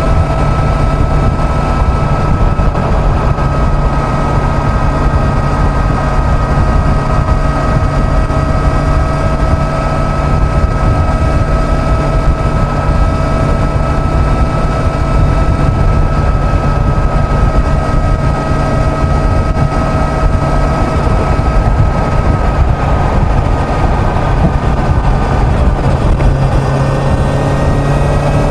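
Kawasaki Z900 inline-four engine running at steady highway cruising speed, a constant engine whine over heavy wind rush, the pitch shifting slightly near the end.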